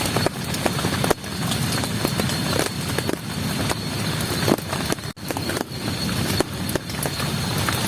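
Heavy rain falling steadily, with drops striking close by as many sharp, irregular taps.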